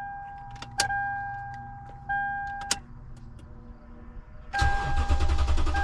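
Toyota Tundra's warning chime dinging about every second and a quarter, with a few sharp clicks. About four and a half seconds in, the engine cranks and fires, and it keeps running now that the fuel-pump relay is in its proper slot.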